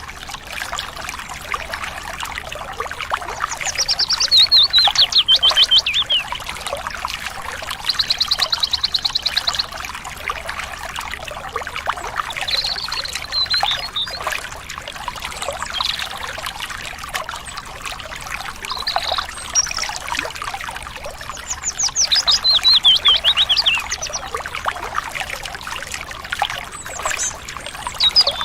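Stream water trickling and babbling steadily, with a bird singing fast trilled phrases every few seconds, several of them sliding down in pitch. The trills are the loudest sounds.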